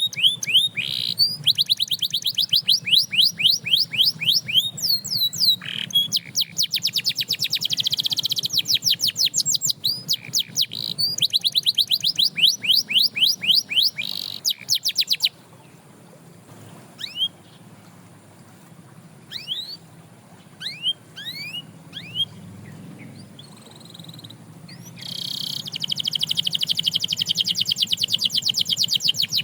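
Canary singing: long rapid trills of repeated sweeping high notes. Around halfway it breaks into a few scattered single chirps, then a fast trill starts again near the end.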